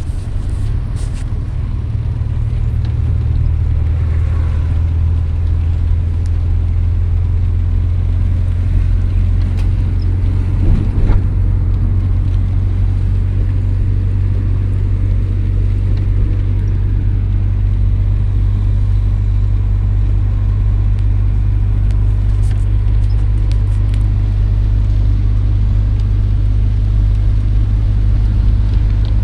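A steady, loud low rumble, with a brief louder bump about eleven seconds in.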